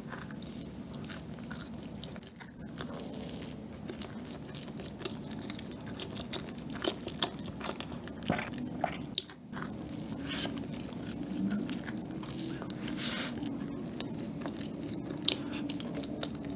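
A person chewing a mouthful of soft cookies-and-cream checkerboard sponge cake, with many small wet mouth clicks and smacks.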